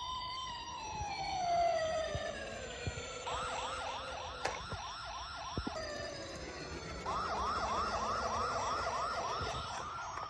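Electronic toy police-car siren: a slow wail that rises and falls, then a fast yelping warble repeating about three to four times a second, in two runs, with a few light clicks among it.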